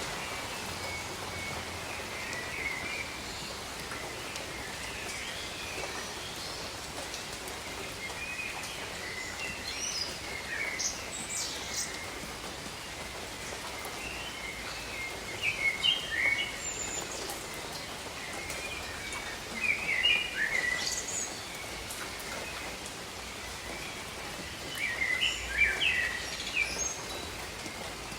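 Steady rain hiss with birds chirping over it in short phrases, the loudest bursts of song coming about ten, sixteen, twenty and twenty-six seconds in.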